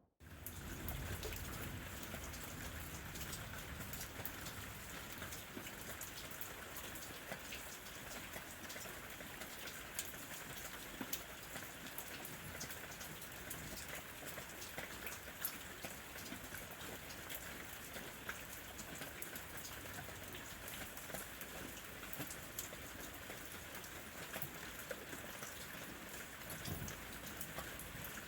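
Steady rain falling, with many separate drops heard as small ticks against an even hiss.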